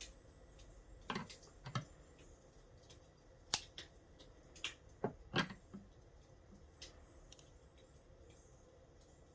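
Handling sounds of paper-craft work on a notebook: about half a dozen sharp clicks and taps, bunched between one and six seconds in, then only faint ticking.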